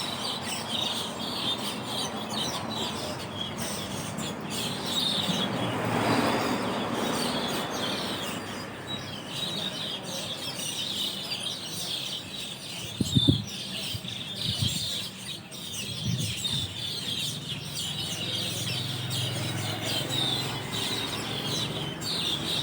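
A large roosting flock of Asian glossy starlings chattering continuously, a dense mass of high overlapping calls. A broad swell of rushing noise rises and fades about six seconds in, and a few short low thumps come about halfway through.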